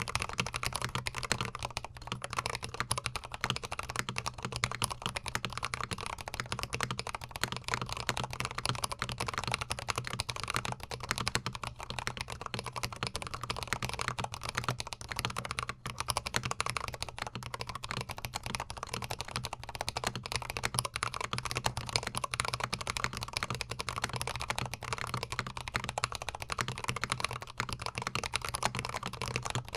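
Fast, continuous typing on a GMMK Pro mechanical keyboard fitted with Holy Panda tactile switches, close-miked: a dense run of keystroke clacks with a short pause about halfway through.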